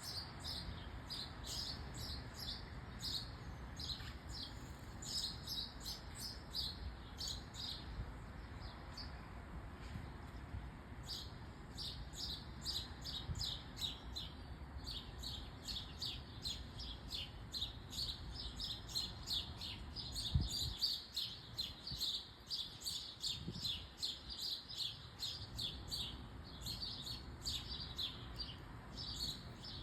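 Small birds chirping, with many short high chirps tumbling over one another without pause, over a low steady rumble. A single low thump about twenty seconds in.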